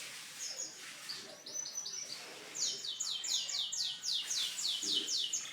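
Domestic canary singing: a short fast trill, then a run of about ten high notes that each fall in pitch, at roughly three a second.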